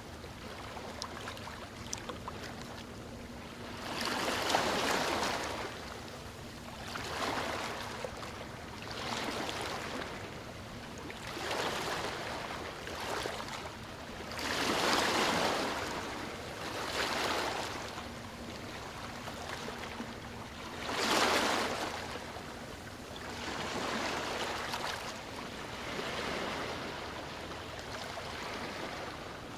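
Sea waves breaking and washing onto the shore, the surf swelling and falling back every two to three seconds. The biggest waves come about four, fifteen and twenty-one seconds in.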